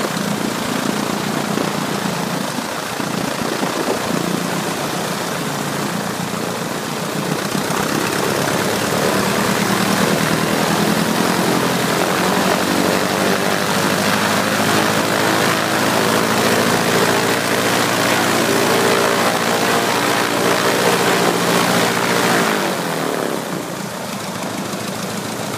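Ercoupe's piston engine and propeller running up: the throttle opens about seven seconds in, the engine holds a higher speed for about fifteen seconds, then drops back near the end. The engine will not run above about 1700 rpm, a fault the owner traces to the carburettor.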